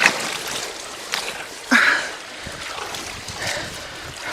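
Creek water splashing and sloshing as debris is shifted in the water, with three sharp splashes a little under two seconds apart over the steady rush of the stream.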